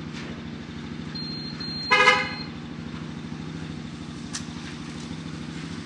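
A car horn gives one short toot about two seconds in, over the steady low running of an idling engine. A single click sounds a little past four seconds.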